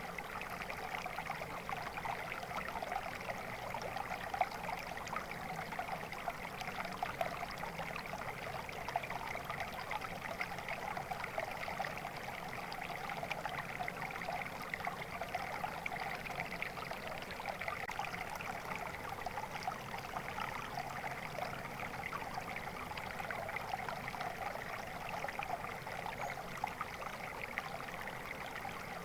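Water flowing steadily in a stream, a continuous babbling rush without pauses.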